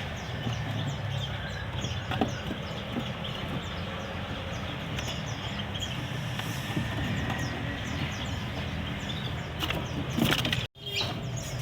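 Caged songbirds chirping in a bird shop: many quick, high chirps repeating over a steady background hum. The sound drops out for a moment near the end.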